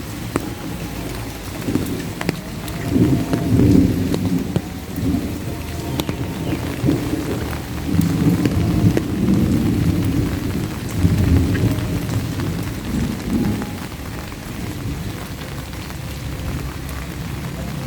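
Steady rain falling, with many small raindrop ticks, while low rolling thunder rumbles through. The thunder swells a few seconds in and again through the middle.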